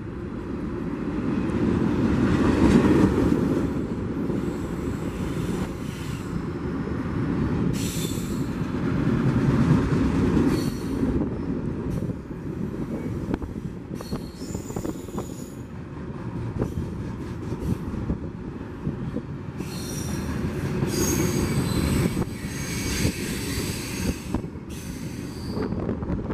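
Union Pacific double-stack container freight train's wheels rumbling steadily on the rails. High-pitched wheel squeals come and go, most of them near the end.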